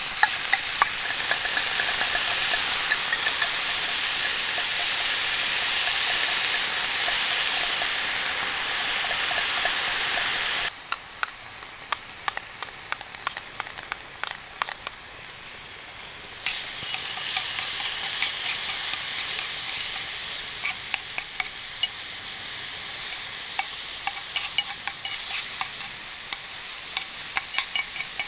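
Meat frying in a small black skillet on a gas burner, sizzling loudly, with light clicks and scrapes from the food being turned and stirred with chopsticks. The sizzle drops off suddenly about ten seconds in, then comes back loud a few seconds later and slowly eases.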